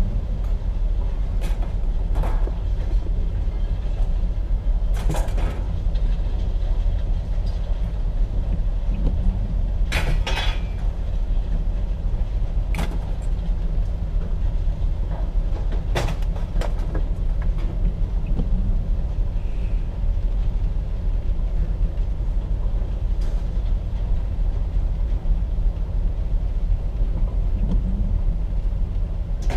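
Truck engine idling steadily, with a few scattered sharp knocks and clanks.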